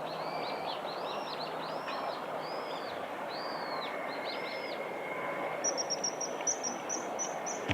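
Birds calling over a steady background hiss: a run of arched chirps spaced under a second apart, then, after a short gap, a fast series of thin, high, evenly spaced notes.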